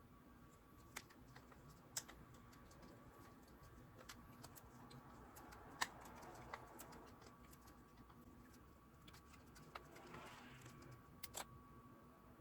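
Near silence with a few faint, scattered clicks and light taps, and a brief soft rustle about ten seconds in.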